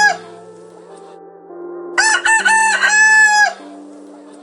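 Rooster crowing cock-a-doodle-doo. The end of one crow falls at the very start, then one full crow comes about two seconds in: three short notes and a long held last note.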